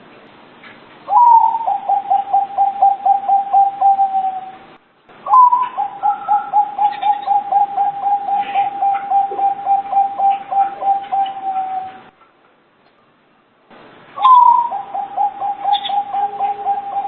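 Zebra dove (perkutut) cooing: three bouts of its song, each opening with a higher note and running into a rapid string of short coos, about five a second, falling slightly in pitch. The middle bout is the longest, at about seven seconds.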